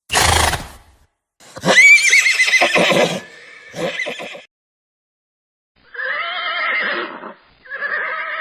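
A horse neighing: a short breathy blast, then a long whinny with a high, quavering pitch, a short call, and two lower, longer calls near the end.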